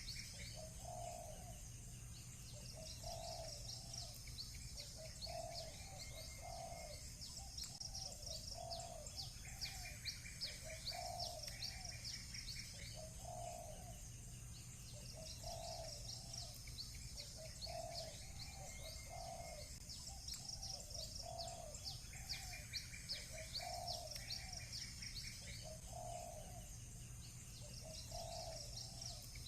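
Doves cooing, a low note repeated about every second and a bit, with small birds chirping rapidly and high-pitched over it and now and then a short trill.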